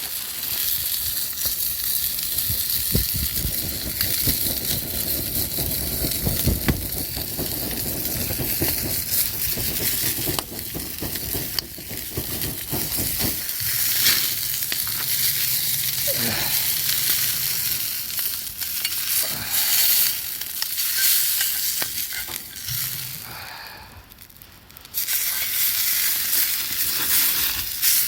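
Food frying and sizzling in a pan over a campfire, with some stirring. The sizzle is steady with small crackles, and it briefly falls away about three-quarters of the way through before returning.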